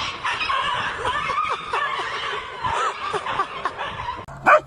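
High-pitched laughter and snickering, in short wavering bursts.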